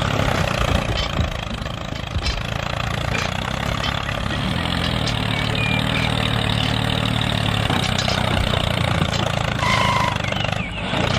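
Steady engine-like running with a low, even hum, the sound that goes with a miniature model tractor at work.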